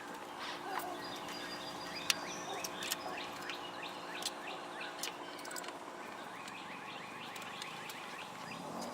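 Birds chirping in quick, repeated short calls over a steady low hum, with scattered sharp clicks and taps.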